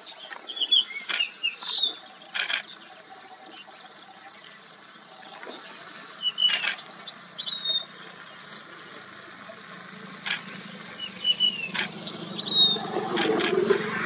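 Small bird's high chirping calls in three short bouts a few seconds apart, each a quick run of thin, slightly falling notes. A few sharp knocks fall among them over a steady low background noise.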